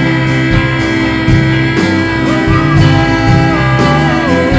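Live worship band music between sung lines: sustained chords with guitar and a steady drum beat, a melodic line sliding down near the end.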